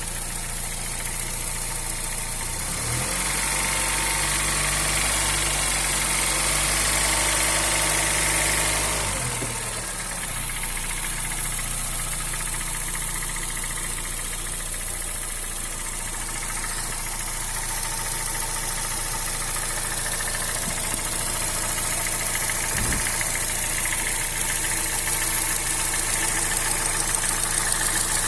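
Honda Fit first-generation 1.5 VTEC four-cylinder engine idling with the well-known "tec, tec, tec" tapping. The engine speed rises about three seconds in and settles back near nine seconds, and there is one short knock near the end. The owner says two valve adjustments have not cured the tap and that it is not the A/C compressor bearing.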